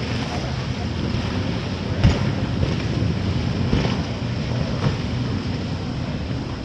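Wind buffeting the microphone over the steady rumble of boat engines and water, with a few dull thumps, the strongest about two seconds in.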